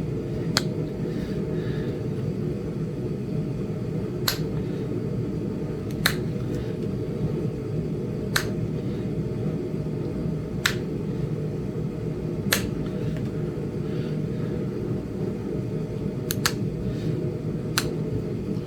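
Sharp clicks of flakes snapping off a small Flint Ridge chert point as it is knapped, about one every two seconds, over a steady low hum.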